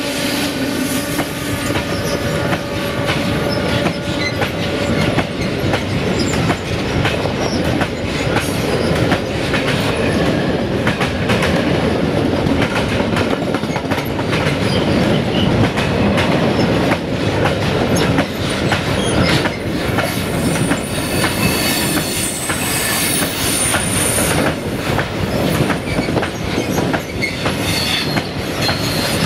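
Loaded freight wagons of a train behind a 060-DA (LDE2100) diesel locomotive rolling past close by, with a steady wheel rumble and rhythmic clacking over the rail joints. The locomotive's tone fades over the first few seconds. A high wheel squeal on the curve comes in around two thirds of the way through.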